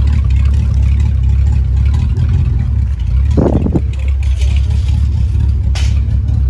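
A car engine idling close by: a deep, steady rumble. There is a brief louder burst about halfway through and a short sharp noise near the end.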